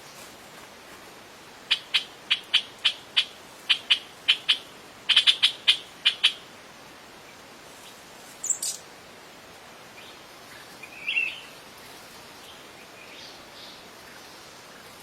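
Wild birds calling: a quick series of about fourteen short, sharp chirps over some four seconds, then a brief higher call and one more chirp a few seconds later, over a steady faint hiss.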